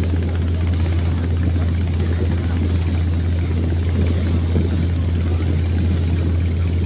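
Coal-carrying ship's engine running with a steady low drone.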